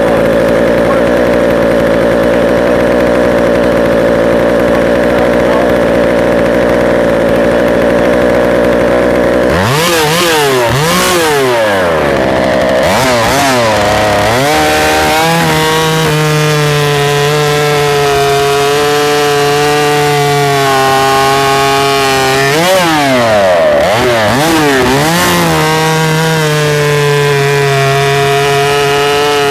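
A 90cc-class two-stroke professional chainsaw cuts through a maple log. It runs steadily in the cut at first; about ten seconds in the revs swing up and down a few times. It then holds a steady, lower pitch under load, swings again, and settles steady near the end.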